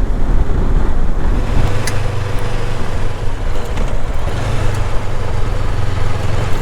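Honda NX500 motorcycle's parallel-twin engine running at a steady cruise, a low even drone under a rushing wash of wind and road noise.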